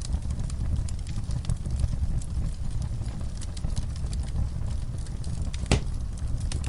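Wood fire burning in a fireplace: frequent small crackles over a steady low rumble, with one louder pop near the end.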